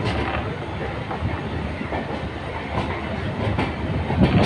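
Passenger train coaches rolling along the track, heard from an open coach door: a steady rumble with the clickety-clack of wheels over rail joints, and one sharper clack near the end.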